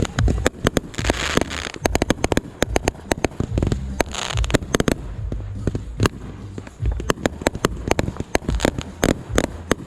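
Fireworks going off: a rapid run of sharp cracks and pops over low booms, with thick crackling showers about a second in and again about four seconds in.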